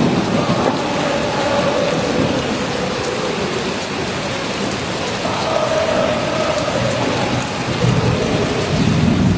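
Torrential rain pouring down steadily with thunder rumbling; the low rumble swells near the start and again near the end.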